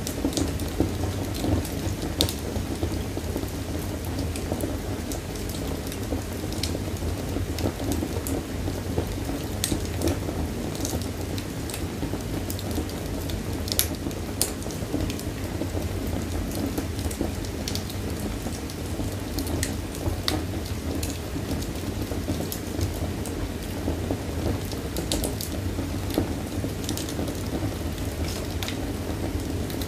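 Wood fire burning in a fireplace: a steady low roar of flames with irregular sharp crackles and pops of burning wood.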